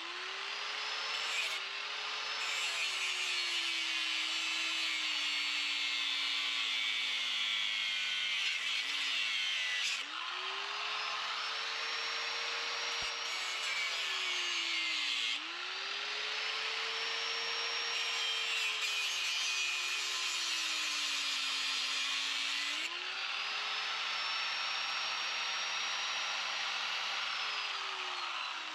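Corded electric power saw cutting wood. Its motor whine sags in pitch through each long cut and speeds back up between cuts, about four times.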